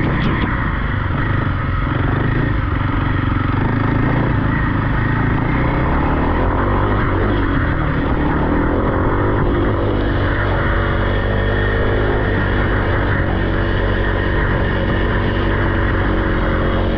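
Off-road vehicle engine running at a fairly steady speed, with only slight changes in pitch.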